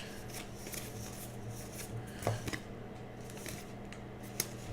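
Faint handling of 2018 Topps Heritage baseball cards as a pack is sorted through, with a few soft clicks and rubs over a steady low hum.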